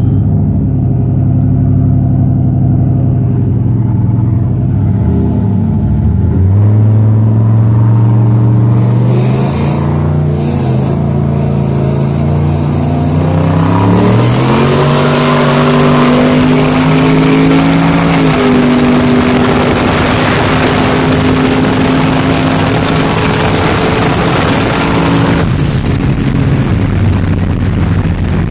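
Engines pulling hard at wide-open throttle as a turbocharged LS-powered truck and a Shelby GT500 race from a roll. The engine note climbs steadily in pitch, drops once at a gear change about two-thirds of the way through, then holds, under a heavy rush of wind noise that eases near the end.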